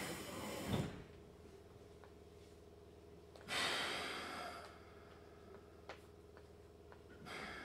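Keikyu 1500-series electric train car as it comes to rest: running noise dies away about a second in, leaving a low steady hum. A short hiss of compressed air comes about three and a half seconds in and another near the end, with a few faint clicks between.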